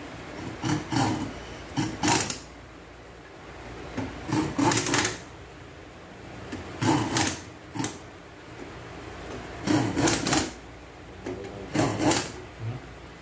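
Short bursts of metal clicking and clattering, seven in all, a second or two apart, as tools and transmission parts are handled during a transaxle rebuild.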